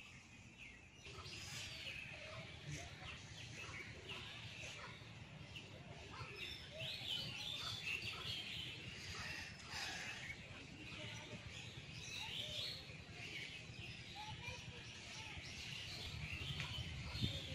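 Birds chirping and calling, many short overlapping calls throughout, over a steady low background rumble, with a sharp click near the end.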